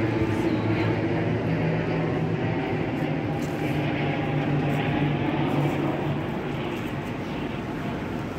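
A steady mechanical drone with a low, constant hum, easing off slightly near the end.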